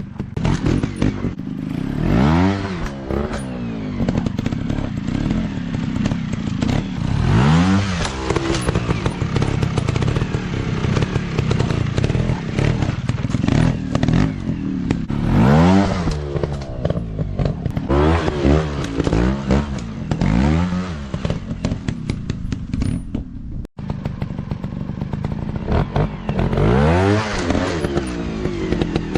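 Small dirt-bike engines revving hard over and over, pitch rising with each throttle burst and falling back in between, with clatter and scraping from the bikes working over rough ground. The sound cuts out for an instant near the end.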